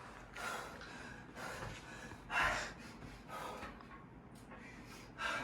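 A man's heavy, strained breathing as he does pull-ups: sharp puffs of breath about once a second, the loudest about two and a half seconds in.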